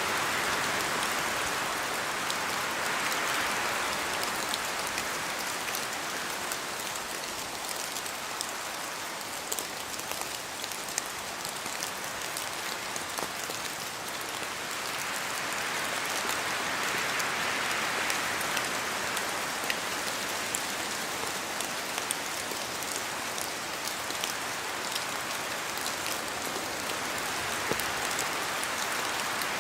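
Steady rain falling in a forest, with scattered individual drops ticking sharply over the hiss. The rushing hiss swells and eases a few times, about a second in, in the middle and near the end, as wind gusts through the trees.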